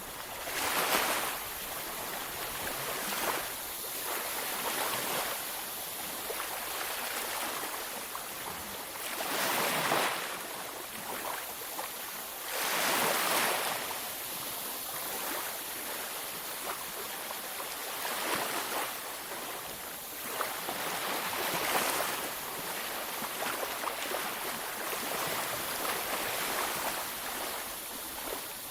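Ocean waves breaking on a beach, a steady rush of surf that swells with each wave, the loudest breaking about a second in and again around ten and thirteen seconds.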